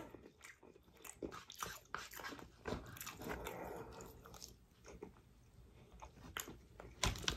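Faint mouth-close chewing and crunching of fried chicken, scattered small crackles and wet clicks, a little louder near the end.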